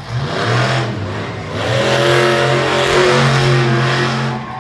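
Monster truck engine revving in a couple of short throttle blips, then held at a steady high rev for a couple of seconds before easing off near the end.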